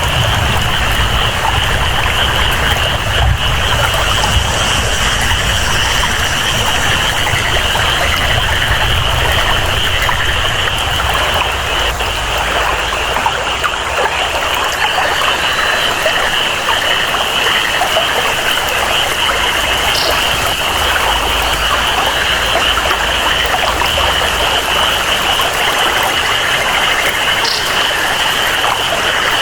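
Steady rainforest ambience: rain and flowing water in a continuous hiss, with a constant high-pitched chorus of jungle frogs or insects running over it and a low rumble underneath.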